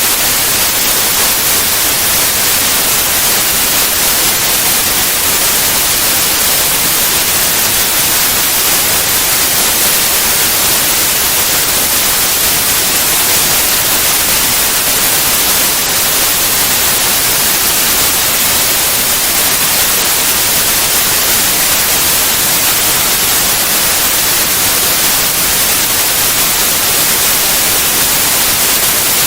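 Steady white noise: an even, unchanging hiss across all pitches, loudest in the highs.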